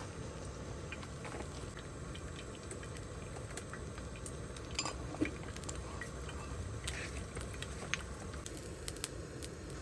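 Steady low rumble with scattered light clicks and clinks, a little busier about five seconds in.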